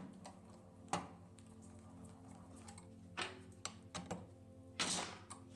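A few sharp clicks and knocks of metal tools and engine parts being handled during an engine teardown, over a faint steady hum.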